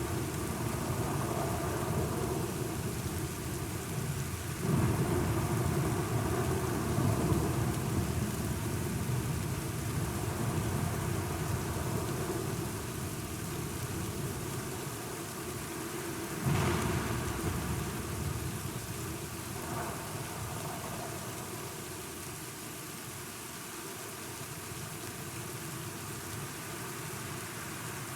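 Steady rain with rolling thunder: a rumble swells in about five seconds in, and a sharper thunderclap about sixteen seconds in rolls away over the next few seconds.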